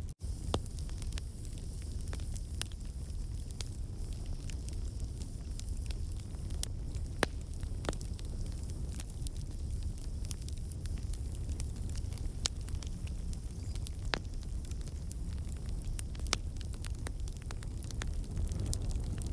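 Wood campfire burning with a steady low rush and scattered crackles and sharp pops from the logs, a few of them louder than the rest. The pops come from water and sap in the wood turning to steam and escaping.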